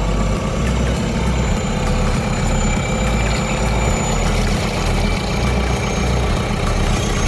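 Engine of a 3.5-ton road sweeper running steadily with a low rumble as the vehicle moves slowly.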